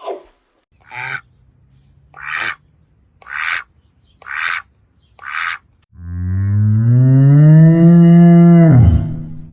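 An animal calling: six short breathy huffs about a second apart, then a long, low, loud call about six seconds in that holds its pitch for some three seconds and drops away at the end.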